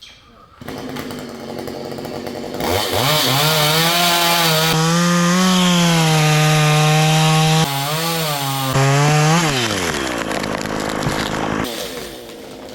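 Stihl chainsaw revved up to full throttle about three seconds in, holding a high steady pitch with a brief dip near eight seconds, then dropping back off the throttle about ten seconds in.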